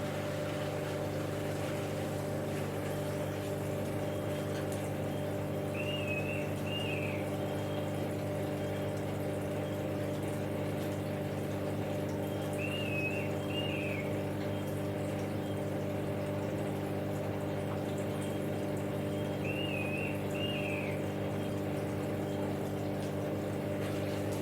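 Samsung EcoBubble front-load washing machine running a cotton wash: a steady hum with water moving in the drum. A faint two-note chirp comes three times, about seven seconds apart.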